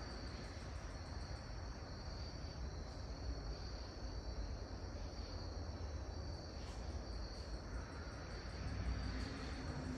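Outdoor ambience: a steady, finely pulsing high-pitched insect trill, like crickets, over a constant low rumble.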